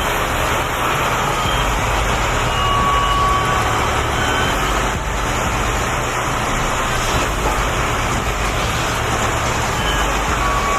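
Steady vehicle engine and road noise, with a few brief faint high tones.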